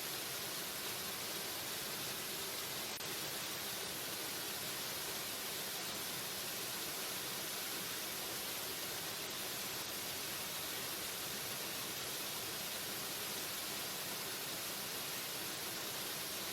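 Waterfall: a steady, unbroken rush of falling water with no changes or distinct events.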